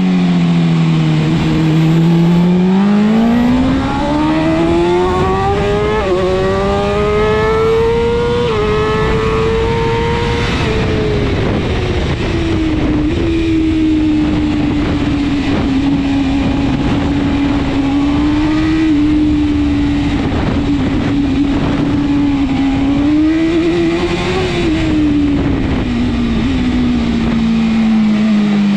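BMW S1000RR superbike's inline-four engine at racing speed. The revs drop low about a second in, then climb through the gears to a high peak about ten seconds in. It then holds a steady pitch for a long stretch, rises briefly near the end and eases off again.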